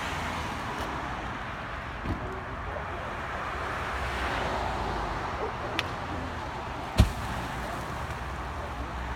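Burning pickup truck: a steady rushing noise of the fire, broken by sharp pops, a small one about two seconds in, another about six seconds in, and a loud bang about seven seconds in.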